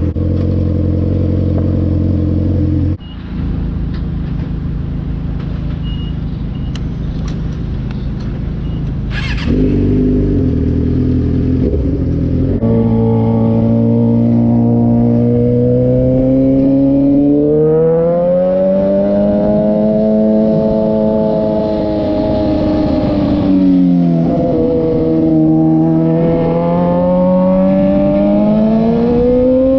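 2006 Suzuki GSX-R 600 inline-four running through a Coffman's exhaust while ridden. A steady engine note drops away abruptly about three seconds in, and the bike runs rougher and steadier for a while. About halfway through the engine pulls up in pitch and holds high, then dips briefly and climbs again near the end.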